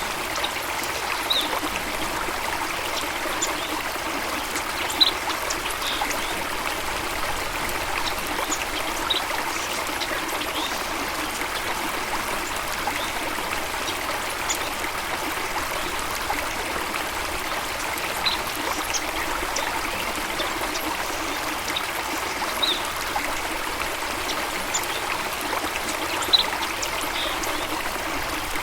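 A stream running and trickling steadily, with brief high-pitched sounds scattered through it every few seconds.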